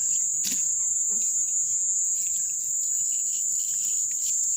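Steady, high-pitched drone of insects, with a brief click about half a second in.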